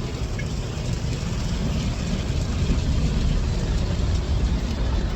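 Steady low rumble with an even hiss, heard from inside a car's cabin as it sits in an automatic car wash.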